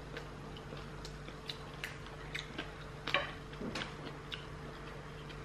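Close-up chewing and biting of crispy air-fried pork belly skin: irregular sharp crunches and clicks, the loudest about three seconds in, over a faint steady hum.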